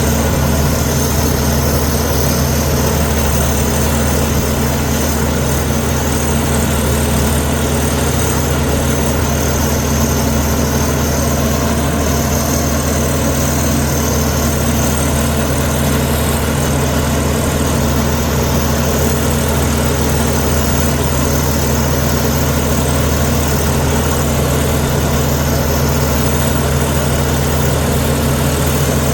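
Komatsu D61EX bulldozer's diesel engine running at a steady, even pitch.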